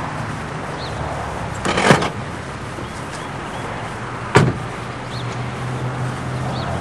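Car engine idling with a steady low hum. A car door opens about two seconds in and is shut with a sharp thump a little over four seconds in.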